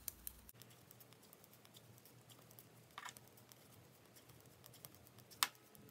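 Two knitting needles clicking faintly as stitches are worked, a few light ticks with a sharper click near the end.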